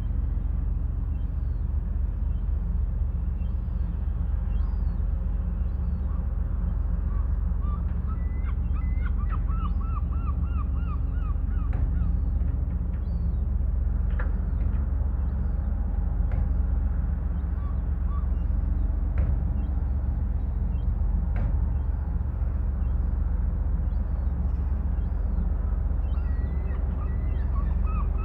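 Birds calling over a steady low rumble: runs of short, repeated calls, about four a second, come in twice, with scattered single calls between.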